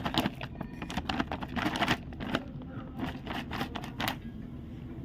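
Hands working potting soil and compost in a plant pot: a quick, irregular run of scrapes, crunches and small knocks.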